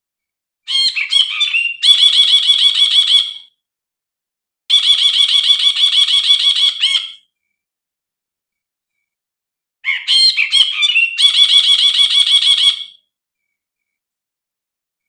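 Brinji (a bulbul) singing in three bouts, each opening with a few quick varied notes and running into a fast, even trill of about two seconds.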